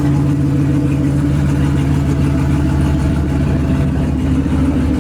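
Turbocharged 6.0 Chevrolet Silverado V8 idling steadily, its pitch holding level with no revving.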